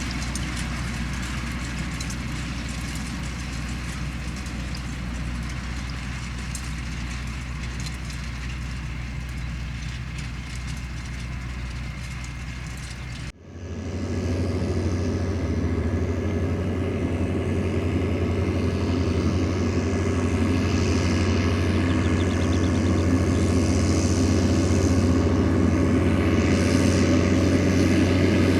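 Diesel farm tractor engines running steadily. About halfway through the sound cuts abruptly to a louder engine with a higher hum, which slowly grows louder toward the end.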